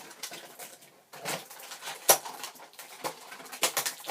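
Packaged toy parts being rummaged and handled in their box: plastic-packaging rustles and light clicks and taps, with one sharper click about two seconds in and a quick run of clicks near the end.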